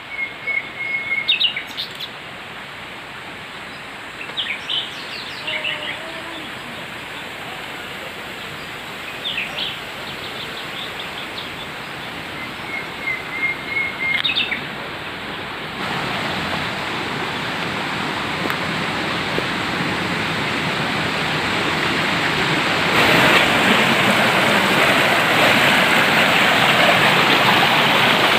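Small birds chirping and trilling over the steady rush of a waterfall. The water noise grows louder about halfway through and again near the end, drowning out the birds.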